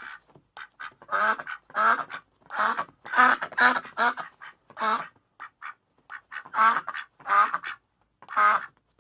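Ducks quacking: a run of loud, harsh quacks, about one or two a second, with short, thinner, higher calls in the gaps between them.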